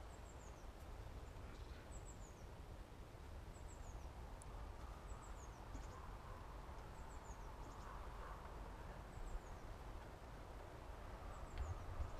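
A small songbird calling faintly: short groups of high, quickly falling chirps, repeated every second or two. A low steady rumble sits underneath.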